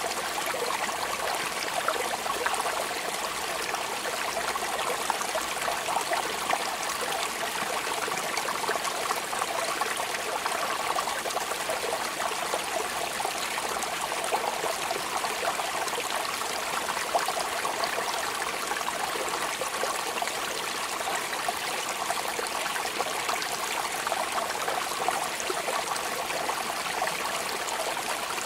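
Steady rainfall: an even, unbroken hiss of many small drops, with no change in strength.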